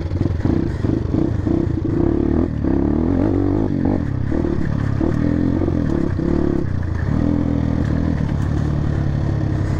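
RM250 enduro dirt bike's engine running under load on a rough uphill off-road trail, the revs rising and falling, with clatter and rattling from the bike over the rough ground.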